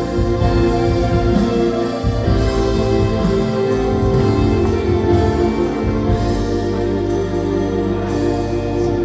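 Church worship band playing slow, sustained keyboard and synthesizer chords over a bass line. The chord changes about two seconds in and again around six seconds.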